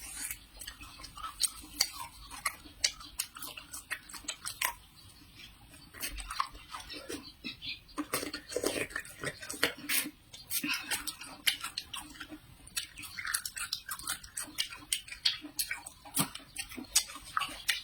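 Close-up chewing and biting of a fresh autumn pear, many irregular crisp crunches.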